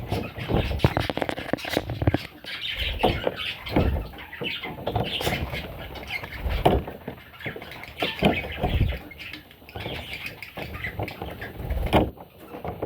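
Parrot chicks squawking and chirping, mixed with frequent short knocks and bumps.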